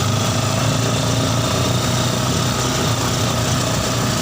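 Yamaha Scorpio Z single-cylinder four-stroke engine in a mini buggy, running steadily at an even speed with no revving.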